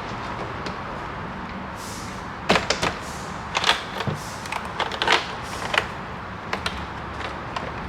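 Scattered sharp clicks and knocks, most of them bunched in the middle, over a steady background hiss: hand work on a pickup truck's door.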